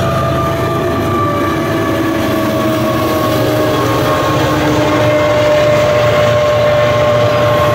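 Union Pacific train passing close by: a loud, steady rumble with a whine that slowly drops in pitch.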